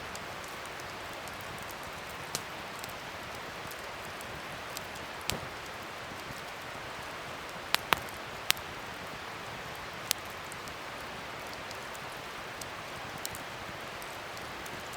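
Wood fire burning with a steady hiss and scattered sharp crackles and pops. The loudest come as a quick pair about halfway through, with two more shortly after.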